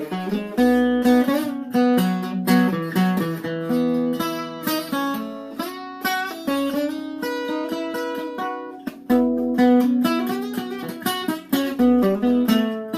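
Acoustic guitar playing an instrumental break between the verses of a folk song, with picked and strummed notes and no singing.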